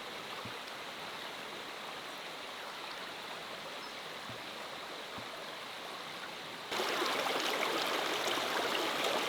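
Mountain valley stream flowing with a steady rushing sound, which suddenly becomes louder about two-thirds of the way through.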